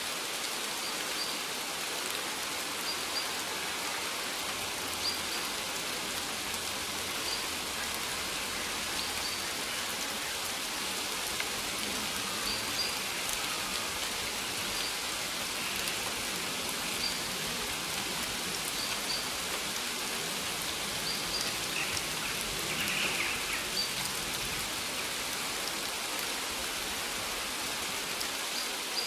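Steady rain falling on maize leaves: an even hiss with small, sharper drop sounds every second or two.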